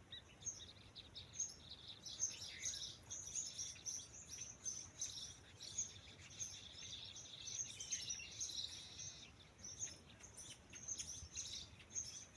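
Birds chirping: a dense run of short, high chirps from several birds, thinning briefly about ten seconds in.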